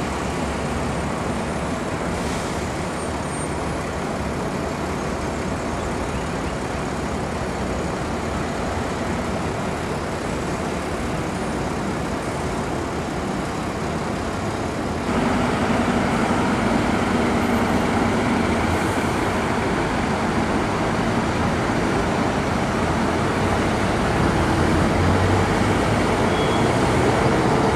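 Diesel bus engine running amid road traffic noise, a steady dense rumble that gets abruptly louder about halfway through.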